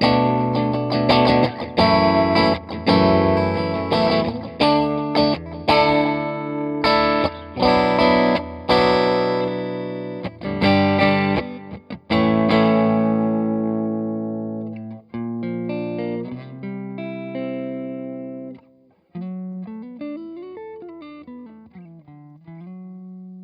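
Electric guitar played through an amplifier: loud strummed chords for about twelve seconds, then quieter single notes, with a note bent or slid up and down near the end.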